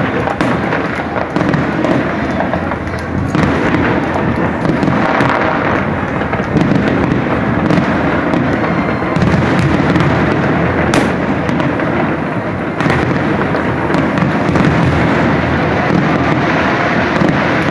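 Fireworks going off in rapid succession: a dense, continuous barrage of bangs and crackling, with one sharper crack about 11 seconds in.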